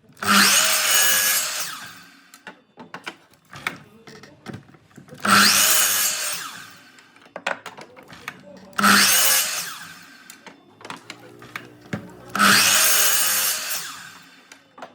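A handheld electric power tool triggered in four short bursts, each spinning up with a rising whine and then winding down as it works the wood. Small knocks and clicks come between the bursts.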